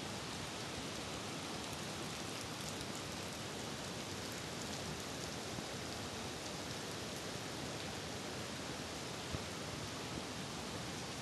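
Steady rain falling in a constant hiss, with faint scattered drop ticks and one light tap about nine seconds in.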